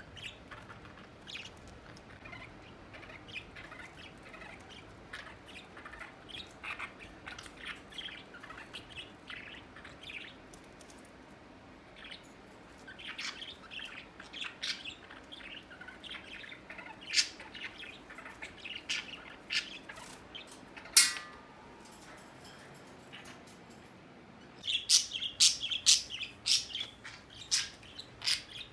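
Pet budgerigars and a conure chirping and chattering in short, high calls, with one sharp, louder call about two-thirds of the way through and a denser run of louder chirps near the end.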